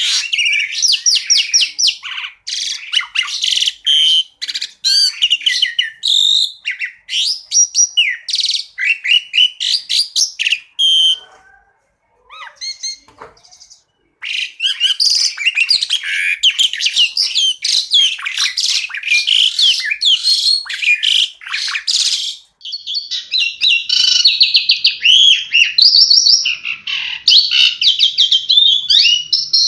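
Pied starling (jalak suren) singing a fast, varied song of rapid chirps, whistles and trills. It breaks off for a couple of seconds near the middle, with only a few scattered notes, then carries on.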